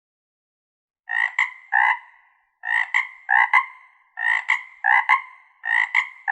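Frog croaking in pairs of short, raspy croaks, starting about a second in and repeating about every one and a half seconds.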